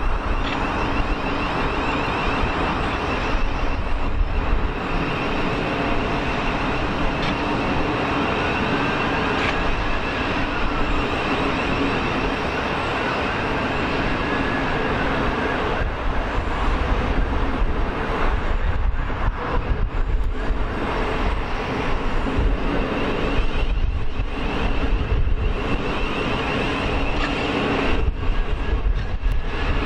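Train running along the line, a steady rumble with faint whining tones that rise and fall.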